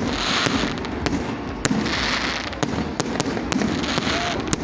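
Fireworks going off: many sharp bangs at irregular intervals over a steady low rumble, with swells of crackling hiss lasting about half a second each, one at the start and one about two seconds in.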